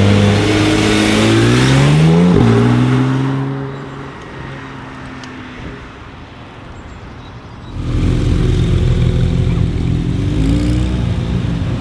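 Porsche 991 Turbo S twin-turbo flat-six with an Akrapovic exhaust accelerating hard. Its pitch rises into a quick gear change about two seconds in, then the car fades as it pulls away. About eight seconds in, a loud engine abruptly takes over, running steadily at low revs with a slight rise in revs near the end.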